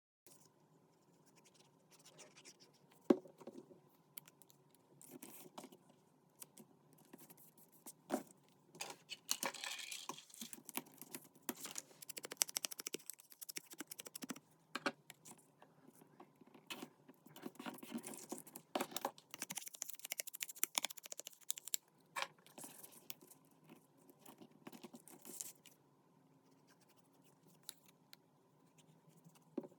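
Paper and card being handled on a desk during journal crafting: dry scratching and rustling with irregular small taps and clicks, one sharper tap about three seconds in, and longer scratchy passages about a third of the way through and again past the middle.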